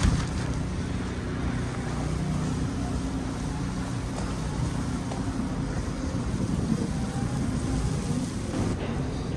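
Steady low rumble of city street noise: traffic and wind.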